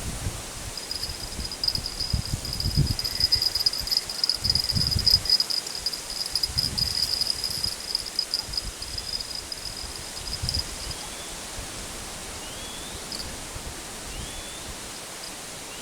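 An insect trilling steadily at a high pitch, stopping about two-thirds of the way through, over low rustling and bumping in the first few seconds. A few short rising chirps come near the end.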